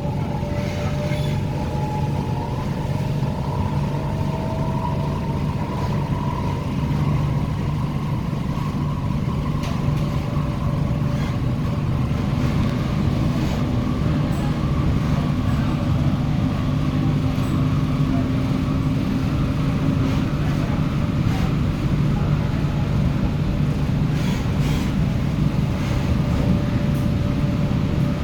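Tung Chung Line K-Train (Korean-built EMU) running between stations: a steady low rumble of wheels on rail with a traction-motor whine that glides slightly upward in the first few seconds, then holds level.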